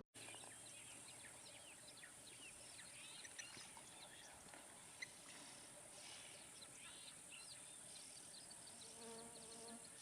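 Near silence with faint wild ambience: a steady high-pitched insect hum and scattered faint bird chirps, with a faint pitched call near the end.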